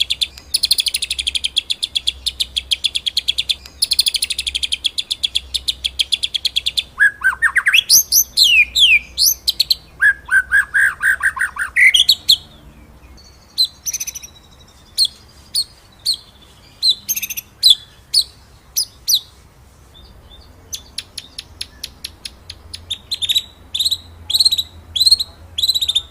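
White-rumped shama (murai batu) singing: a long rapid trill, then loud sweeping whistled notes, then separate sharp calls, and near the end a phrase repeated about twice a second.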